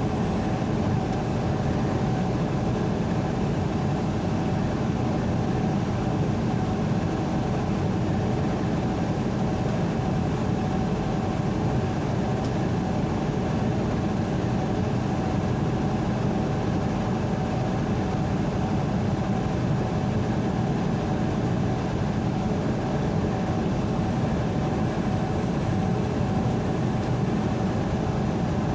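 A steady low rumble with a few faint steady tones over it, unchanging throughout.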